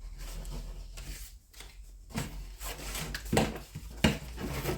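Magazines and kit packets being handled on a table: paper rustling and rubbing, with a few light knocks and a sharp click near the end.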